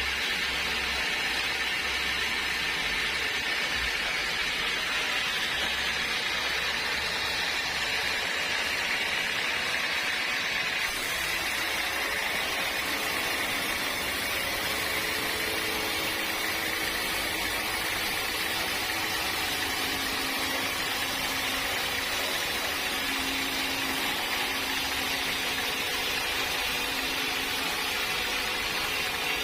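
Sawmill saw running steadily through a log of hard acacia wood: a continuous machine hum with a steady hiss. Faint steady tones join in about halfway through.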